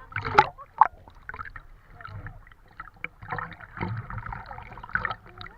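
Sea water splashing and rushing around a banana boat on the move, in uneven surges with a low rumble underneath.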